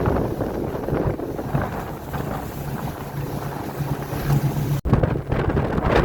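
Wind buffeting the microphone over a boat's engine running with a steady low hum. The sound drops out for an instant just before the end.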